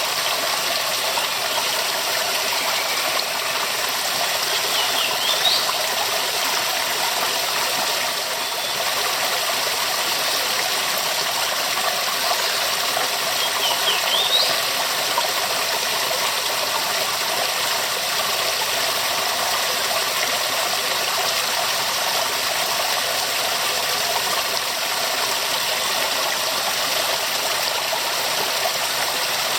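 Waterfall: a steady, dense rush of falling water. Twice, a brief high rising sound briefly shows above it, once early and once about halfway through.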